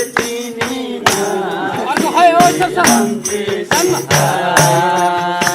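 Folk music with a jingling tambourine or shaker and hand percussion strikes, with voices over it.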